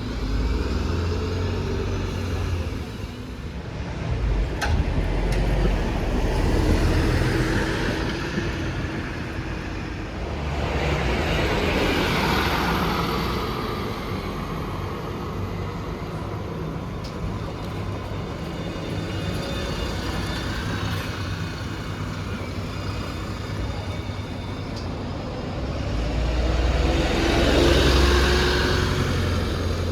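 Street traffic, with vehicles passing by three times, each swelling up and then fading.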